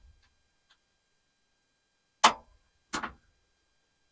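Two sharp clicks or knocks, about three-quarters of a second apart, the first louder, against near silence.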